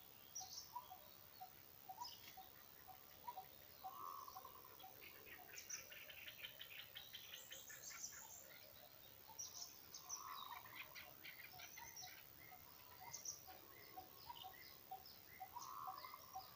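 Faint birds chirping and calling. Under them runs a steady series of short low notes, about three a second, and a short call repeats every few seconds.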